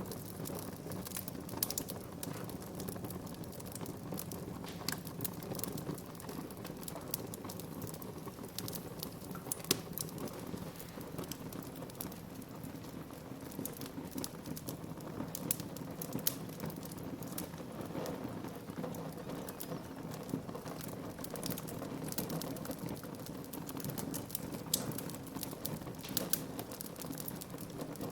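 Wood fire burning in a fireplace: a steady low rush with frequent irregular crackles and sharper pops.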